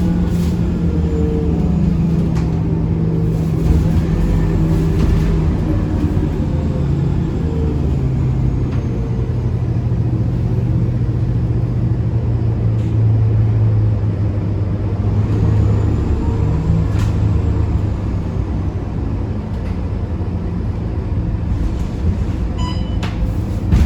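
Scania K230UB city bus's diesel engine heard from inside the cabin, running steadily; its note drops in pitch about seven seconds in, holds low, then eases off in level about seventeen seconds in.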